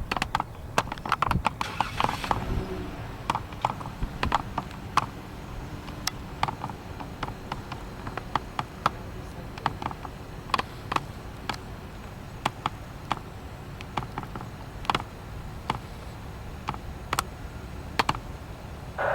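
Irregular series of sharp clicks and taps, about one or two a second, over a steady low rumble.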